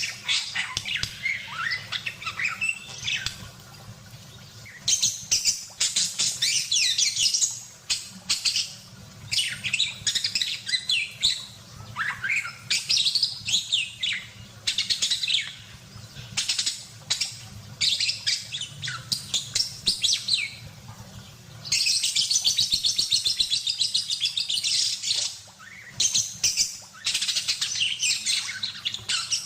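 Parakeet chattering and warbling in rapid bursts of high chirps and trills, each a few seconds long, with short pauses between them.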